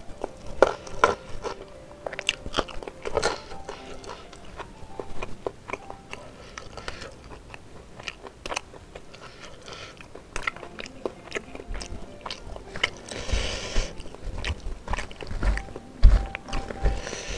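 A person chewing and biting food close to the microphone: wet mouth sounds, crunching and many sharp clicks as he eats spiced beef ribs and raw lemon basil by hand. Brief bursts of rustling about two-thirds of the way in and again near the end.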